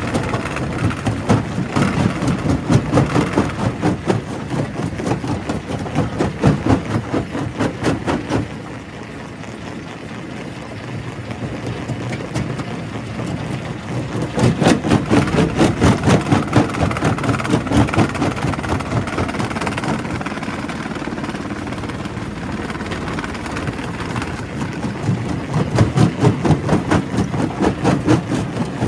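Primary rock crusher at work: heavy machinery running under a dense, continuous clatter of rock being broken. It eases off for a few seconds about a third of the way in, then grows loud again.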